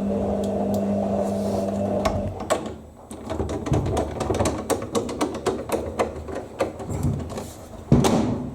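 Power screwdriver motor running steadily for about two seconds as it drives a screw, followed by a quick, irregular run of clicks and rattles.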